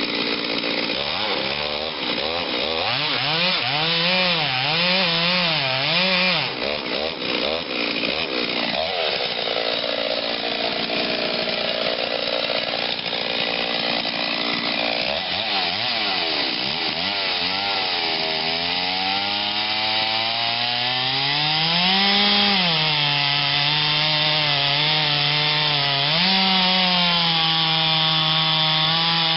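Ported, muffler-modified Stihl 039 two-stroke chainsaw with a 28-inch bar cutting into a big oak at full throttle. Its engine pitch rises and falls in waves as the chain loads up in the wood and recovers, holding steadier near the end.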